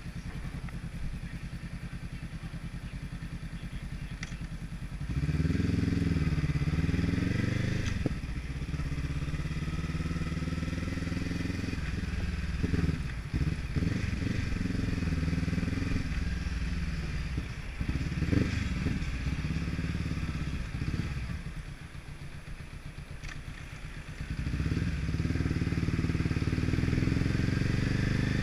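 Honda Rebel 500's parallel-twin engine idling, then pulling away about five seconds in and accelerating, its pitch rising and dropping several times as it goes up through the gears. It eases to a quieter note for a couple of seconds later on before pulling hard again.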